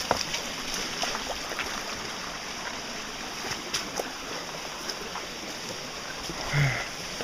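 Steady rush of flowing river water, with a few faint knocks and a brief low sound near the end.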